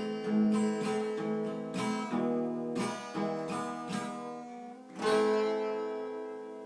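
Acoustic guitar playing the closing bars of a song, strummed and plucked chords ending on a last chord about five seconds in that rings out and fades away.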